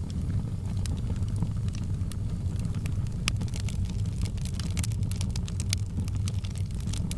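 Wood fire burning: a steady low rumble with irregular sharp crackles and pops throughout.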